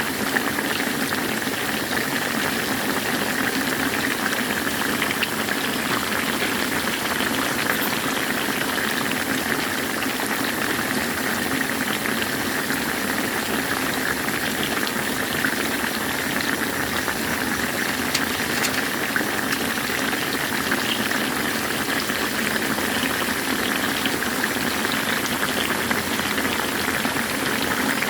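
Chicken deep-frying in hot oil: a steady, dense sizzle with fine crackling throughout.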